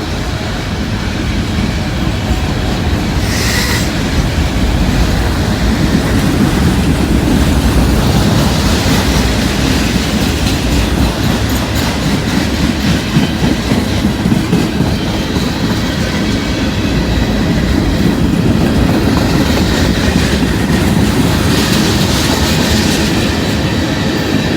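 A long freight train's cars rolling steadily past, their steel wheels clacking over the rail joints. A brief wheel squeal comes about three seconds in.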